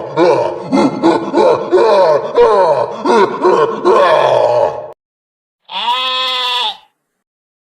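Animals bleating, many calls overlapping with sliding pitch, then a short pause and one single bleat lasting about a second.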